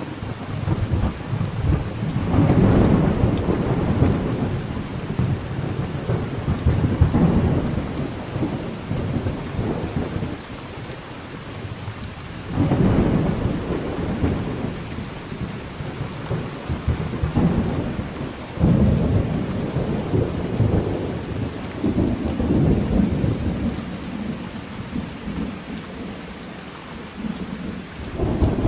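Thunderstorm: steady rain with rolling thunder. Loud rumbles build about two seconds in, again just before halfway, and about two-thirds of the way through, each fading slowly back into the rain.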